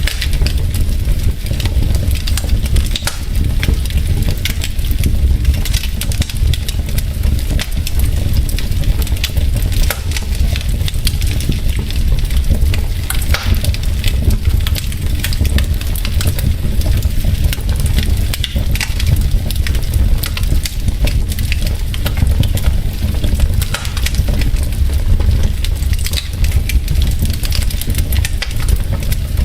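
Wood fire burning in a fireplace, logs crackling steadily with many small pops and snaps over a low rumble.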